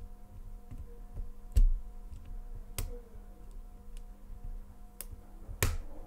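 Small sharp metallic clicks of a hook pick and tension wrench working the spool-pinned pin tumblers of a Cocraft padlock during single pin picking. The clicks come irregularly, the loudest about a second and a half in and another near the end, over a faint steady hum.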